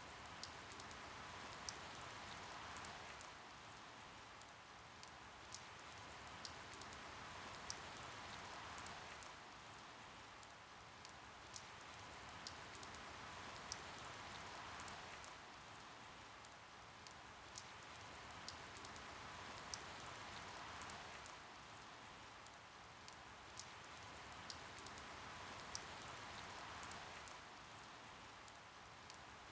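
Faint, steady rain with scattered sharp individual drips, the rainfall swelling and easing slowly about every six seconds.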